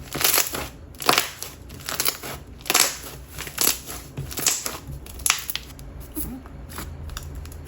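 Lotion-texture slime being squeezed and stretched by hand, giving a run of sharp pops and crackles, about one or two a second.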